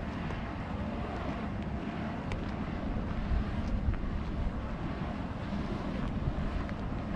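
Strong wind buffeting the microphone: a steady low rumbling rush with small gusts.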